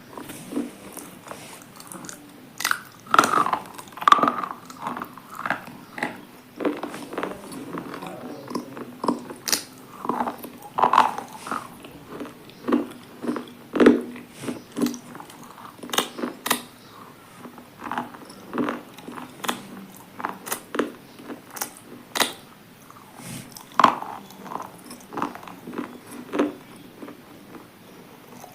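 A person biting and chewing a hard, brittle item, with sharp crunches coming irregularly, about one or two a second.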